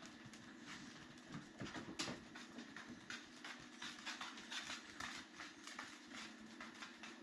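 Chihuahuas' claws clicking and scratching in many faint, irregular ticks, over a steady low hum.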